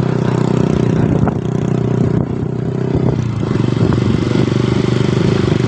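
Engine of a moving road vehicle running steadily under way, with a brief dip in pitch and level about three seconds in.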